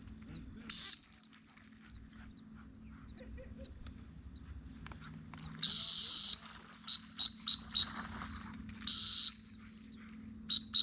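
Dog training whistle blown to handle a retriever hunting for a downed dove: a short toot, a long blast, four quick toots, another long blast, then more quick toots near the end. A faint steady high drone of insects runs underneath.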